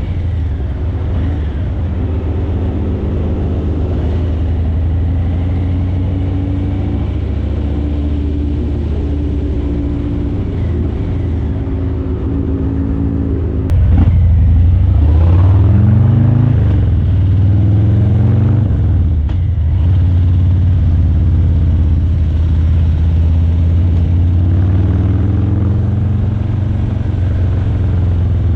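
Harley-Davidson Breakout 117's Milwaukee-Eight 117 V-twin running at low speed through Vance & Hines Eliminator 300 slip-on mufflers, a steady low rumble. About halfway there is a click, then the engine gets louder and picks up revs, rising in pitch, eases off and settles back to a steady run.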